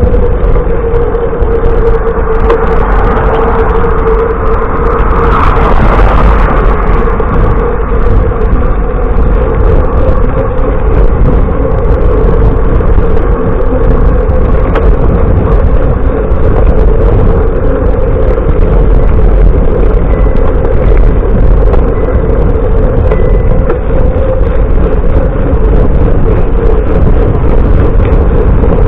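Loud, steady wind and road noise on a camera carried on a moving bicycle, with a passing vehicle swelling up and fading about five to six seconds in.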